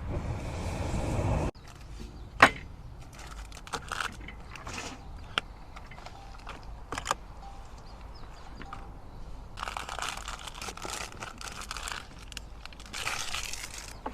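Handling noises: scattered clicks and knocks, one sharp knock standing out, and two stretches of crinkling rustle near the end.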